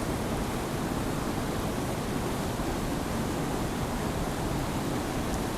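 Waterfall rushing steadily, running with a heavy flow of water.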